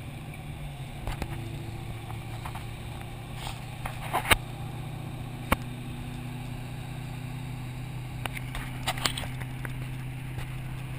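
Car engine running at a steady, low speed, heard from inside the cabin, with a few sharp clicks or knocks over it, the loudest about four seconds in.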